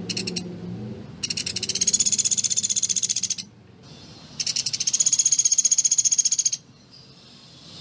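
Sunda pygmy woodpecker (pelatuk beras) giving rapid, high rattling trills: a brief burst at the start, then two long trills of about two seconds each.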